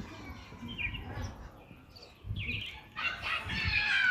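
Birds chirping with footsteps thudding softly on a trail. About three seconds in, a louder high call with several falling tones stacked together comes in and runs to the end.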